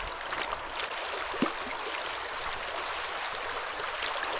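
River water running steadily over a shallow bed, with a few short, sharp sounds in the first second and a half.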